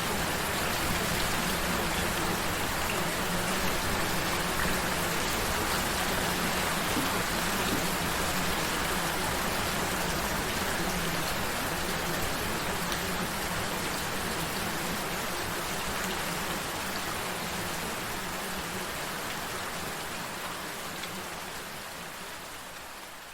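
Recorded gentle rain, a steady hiss of falling drops, fading out over the last several seconds.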